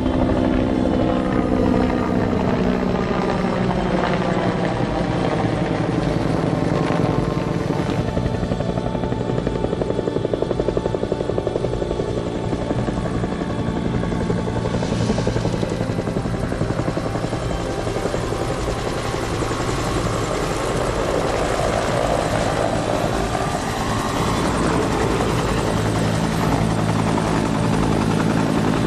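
Aircraft engine noise from a low flypast: a rapidly pulsing engine note that drops in pitch over the first few seconds as the aircraft passes, then rises again later as another pass approaches.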